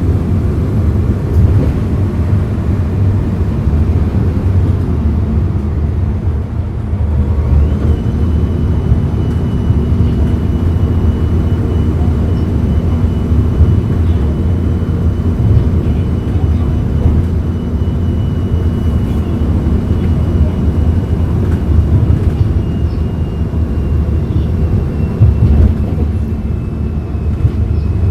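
Hyundai Green City CNG city bus running while driving, a steady deep engine rumble. It dips briefly about six seconds in, then settles back with a steady hum and a faint high whine.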